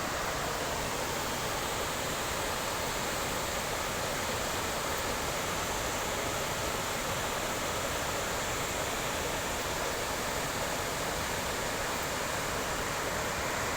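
Kuntala Falls' water pouring steadily, an even rushing noise that stays at one level throughout.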